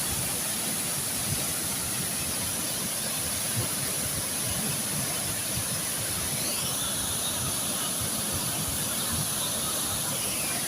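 Waterfall rushing steadily, the constant roar of water falling into its pool.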